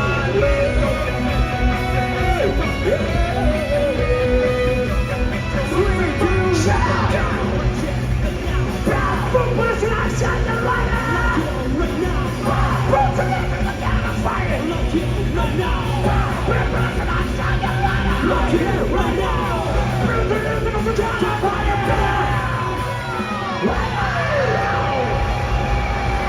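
Live rock band playing loudly in a large hall, with several singers singing and yelling over electric guitars and drums. Near the end one long note is held.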